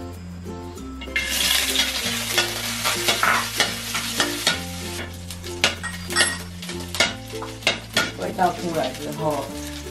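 Dried shrimp dropped into hot oil in a wok and sizzling as they are stir-fried with a metal spatula. The spatula scrapes and clicks against the pan. The sizzle starts suddenly about a second in.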